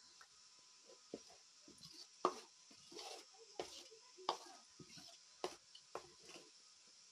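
Children chewing and biting into sel roti, the fried rice-flour ring bread: faint, irregular crunching and mouth sounds, several short ones scattered through the few seconds.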